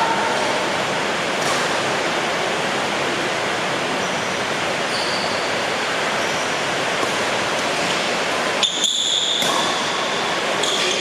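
Heavy rain drumming steadily on the roof of a sports hall, a constant hiss. A few short high squeaks come through it, and one sharp click sounds near the end.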